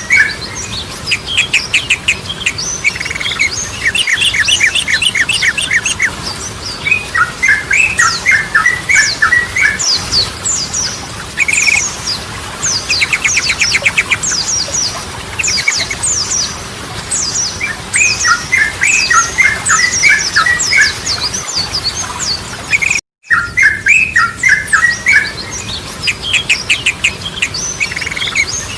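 Yellow-vented bulbul (trucukan) singing: repeated bubbly phrases of quick chirping notes, one after another, with a brief break about two-thirds of the way through.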